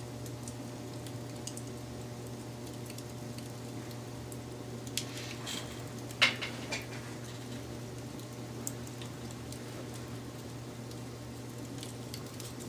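Wood fire burning with a steady low rush and scattered crackles and pops, the loudest snap about six seconds in.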